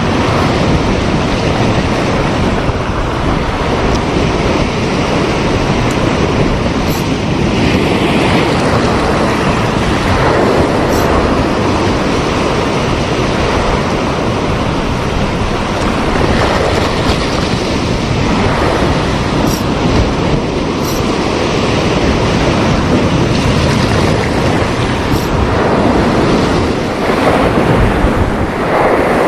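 Sea waves washing onto the shore, with wind rumbling on the microphone; a steady, loud wash of noise.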